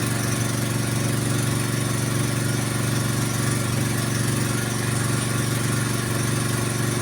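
Small engine of a water-well drilling machine running steadily at a constant speed.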